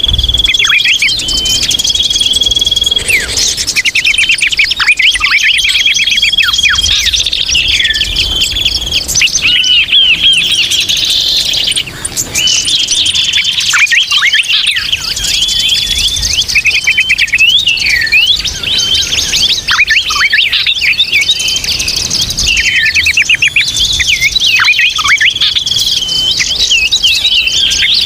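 A dense, busy chorus of many small birds chirping and twittering at once, with a repeated level high whistle among quick trills and chirps. It is a bird-lure (pikat) recording of noisy, chattering birds, used to draw in all kinds of small birds.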